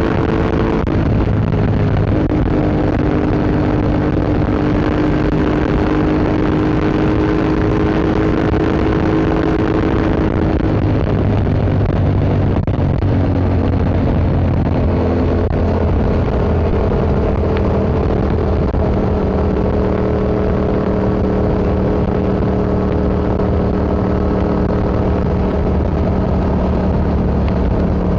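Yamaha MT-07's parallel-twin engine breathing through an Akrapovic Racing Line exhaust, running steadily on the road, its pitch stepping up or down several times as revs change.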